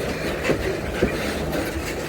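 Loaded freight wagons rolling past, their wheels clicking over rail joints about twice a second, with a steady hiss of strong wind and storm noise underneath.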